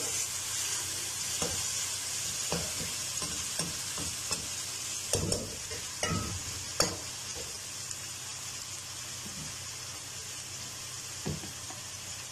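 Ginger-garlic paste with onions and spices frying in oil in a kadhai, a steady sizzle, being sautéed until fragrant. A metal slotted spoon scrapes and knocks against the pan now and then, most often about five to seven seconds in.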